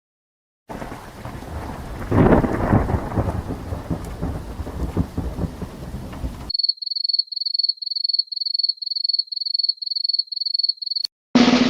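Thunderstorm sound effect: thunder rumbling over rain, with a loud peak about two seconds in. It stops abruptly and is followed by a high-pitched electronic beep repeating about three times a second. Near the end there is a sharp click and another loud effect begins.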